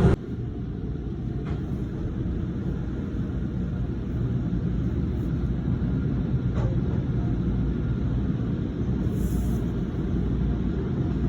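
Low steady rumble of a car and car-wash machinery, with a few faint clicks.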